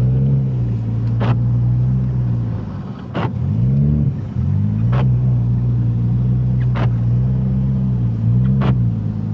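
A 2014 Mazda 2 hatchback's four-cylinder engine running under way on a snowy highway, heard from inside the car. Its pitch rises and settles a few times as it pulls and changes gear. A short sharp sound comes about every two seconds.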